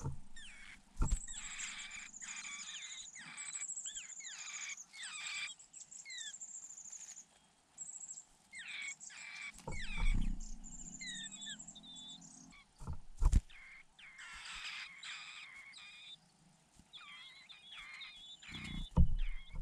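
Nestling birds giving begging calls: bouts of rapid, high-pitched chirps, trills and falling whistles, with pauses between bouts. A few sharp low thumps break in, one about a second in, one in the middle and one near the end.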